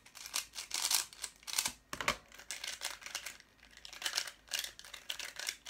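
Plastic Rubik's-style puzzle cube being turned fast, its layers clicking and clacking in quick, irregular runs.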